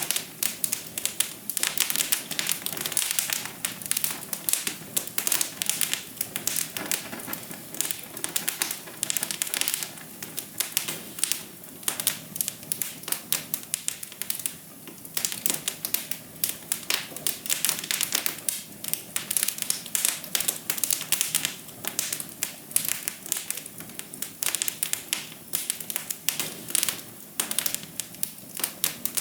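Wood fire crackling in a fireplace: a dense, irregular run of sharp pops and snaps over a soft steady hiss.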